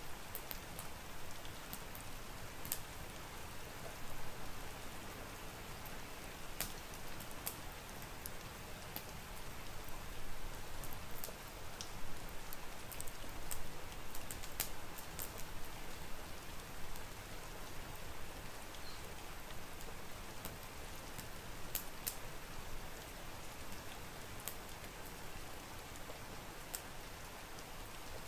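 Steady rain falling, with a log fire crackling over it in scattered sharp pops.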